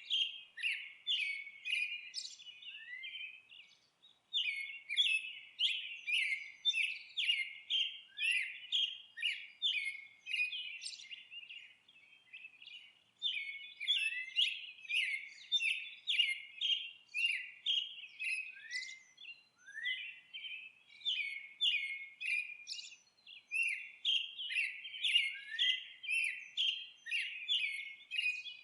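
Songbird chirping rapidly and repeatedly, about two sharp chirps a second, in long runs broken by brief pauses.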